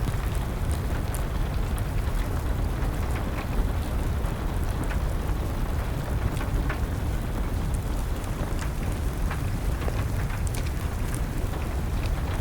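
Steady rain with a fire crackling, its sharp pops and snaps scattered irregularly over a low, even rumble.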